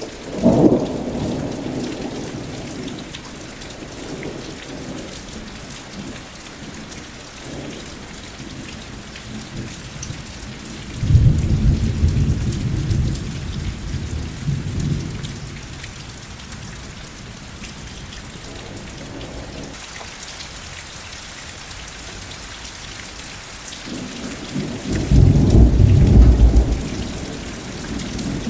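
Steady rain with rolls of thunder: a sudden low crack right at the start that fades over a couple of seconds, a rumble about eleven seconds in, and another, the loudest, near the end.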